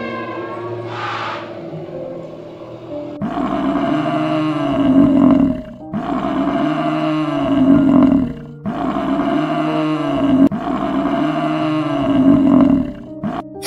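A large animal giving a series of four long, low calls about 2.5 seconds apart, each rising and then falling in pitch, starting about three seconds in.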